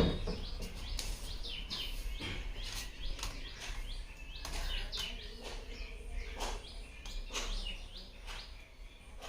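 Birds chirping in the background: many short, quick calls that fall in pitch, scattered irregularly, over a steady low hum.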